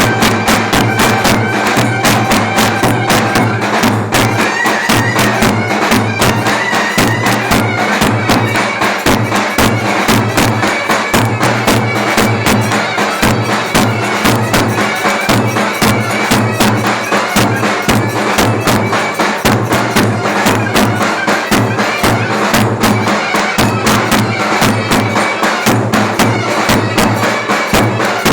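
Clarinet playing a Turkish folk dance tune over a fast, steady davul drum beat.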